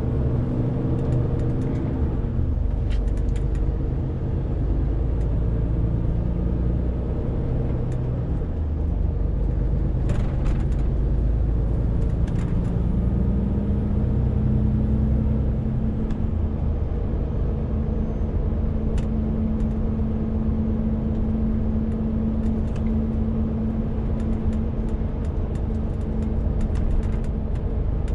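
Renault T520 truck's 13-litre six-cylinder diesel engine running steadily while hauling a 40-tonne load. About halfway through the engine note changes and a new steady tone takes over.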